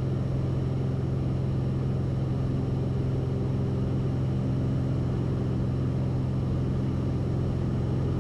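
Cessna 172RG's four-cylinder Lycoming engine and propeller droning steadily, heard inside the cockpit. The power has been pulled back to about 20 inches of manifold pressure after levelling off in the pattern. The drone stays even throughout, with no change in pitch or level.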